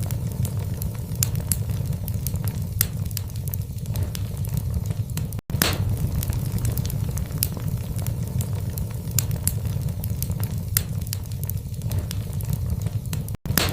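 Wood fire burning in a fireplace: a low steady rumble of the flames with frequent sharp crackles and pops from the burning logs. The sound drops out for an instant twice, about five seconds in and near the end.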